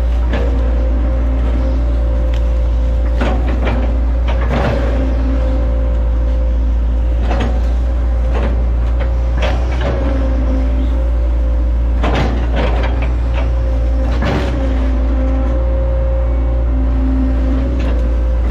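Hitachi ZX110 excavator's diesel engine running steadily under load with a steady whine, while the machine chops oil palm trunks: repeated sharp cracks and knocks of wood breaking and the bucket striking, several of them close together around four, twelve and fourteen seconds in.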